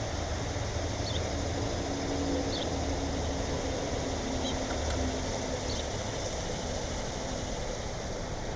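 A small bird at a feeder giving short, high chirps, four of them about a second or two apart, over a steady background hiss and a low drone.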